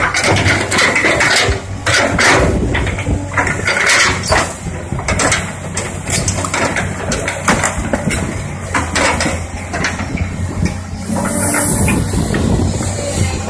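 Heavy diesel machinery running steadily, with many irregular knocks and clanks over the engine.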